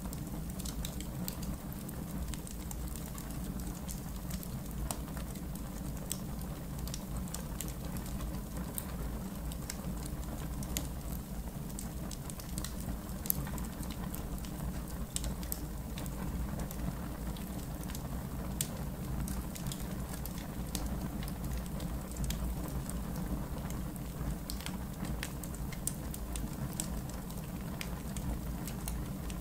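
Campfire in a backyard fire pit crackling, with frequent small sharp pops over a steady low rumble.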